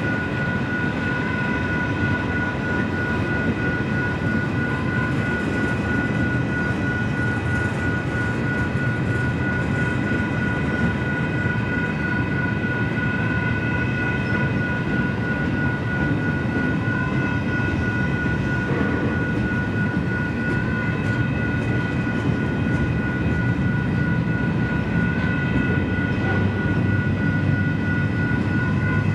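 Double-stack freight train's well cars rolling past with a steady rumble and clatter of wheels on rail, while a grade-crossing bell rings continuously over it.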